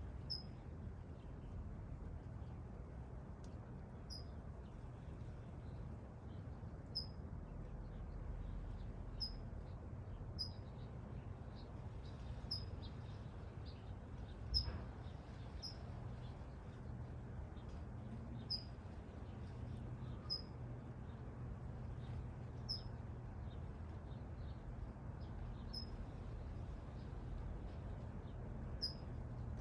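A small bird giving short, high single chirps, one every one to three seconds, over a steady low background rumble.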